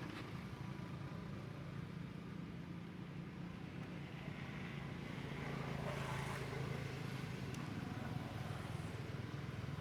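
Steady low drone of an idling engine, like a vehicle waiting nearby, with faint background noise.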